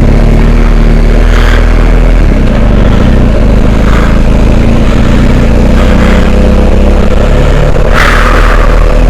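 Adventure motorcycle engine running under way off-road, over a constant loud low rumble, with a few short noisy bursts and a longer one near the end.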